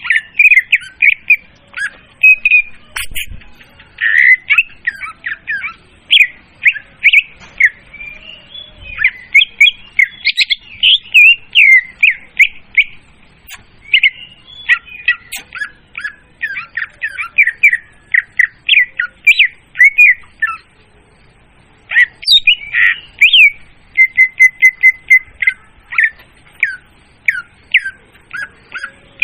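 Leafbird (murai daun) song played as a bird-hunting lure call: loud, with a rapid, unbroken run of short chirps and sliding whistles and a brief pause about two-thirds of the way through.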